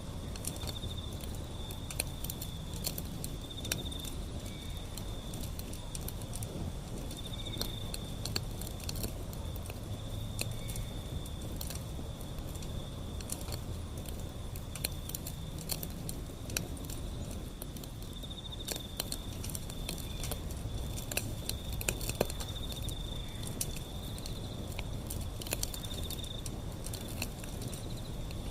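Wood fire burning, with irregular crackles and pops over a low rumble of flames. An insect trills steadily at a high pitch throughout.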